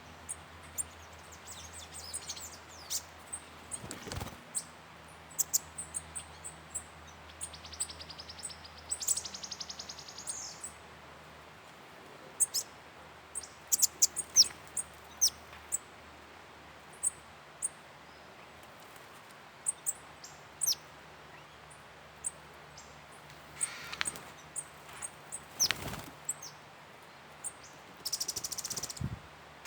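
Wild forest birds calling: many short, high, sharp chirps and falling whistles, with a fast buzzy trill about eight seconds in and a harsh rasping call near the end.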